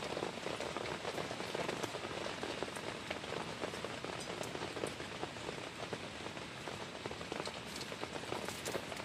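Heavy rain falling steadily: a dense even hiss of drops, with scattered sharper drop ticks.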